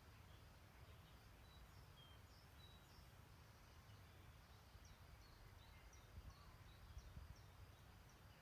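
Faint background birdsong: small birds twittering with short high chirps and whistles, a quick run of chirps about two-thirds of the way through, over a soft steady hiss and low rumble.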